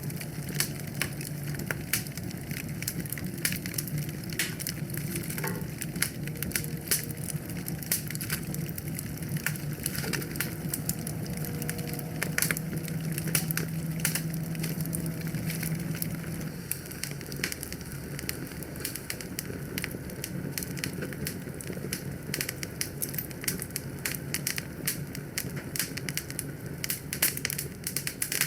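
Wood fire in a fireplace crackling, with dense, irregular sharp pops over a low steady rumble.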